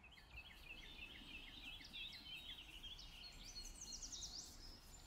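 Faint bird chirping: a quick series of short chirps, then a run of higher, faster sweeping notes.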